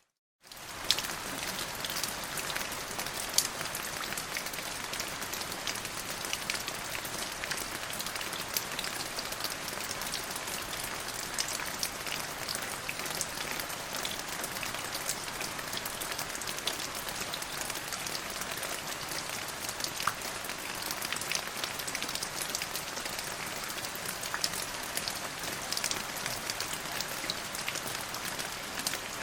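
Steady rain falling on a hard surface: a dense, even hiss made of many sharp individual drop hits, a few of them louder. The sound drops out for an instant right at the start, then carries on unchanged.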